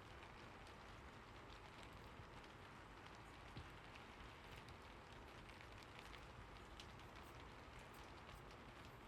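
Faint steady rain falling, with scattered light drop ticks.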